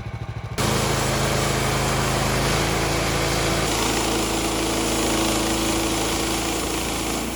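Gas-engine Woodland Mills bandsaw sawmill throttled up suddenly about half a second in, engine and band blade running loud and steady through a cut in a red oak log; the engine note changes about halfway as the cut loads it.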